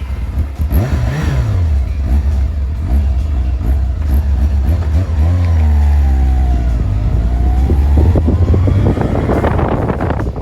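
Motorcycle engine running under way, revving up and dropping back as it moves through the gears: the pitch rises early, falls off around the middle, then climbs again.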